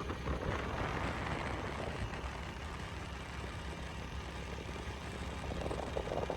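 Motorcycle engine running steadily under way, a low even hum with road and wind noise over it.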